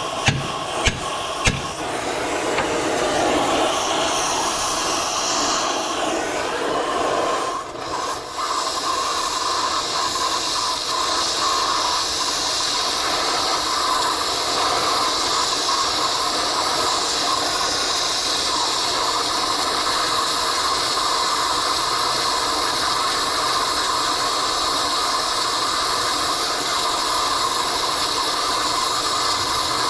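Three sharp metal knocks in the first second and a half, then a steady hiss that runs on with a brief drop about eight seconds in: a cutting torch working on a track pin.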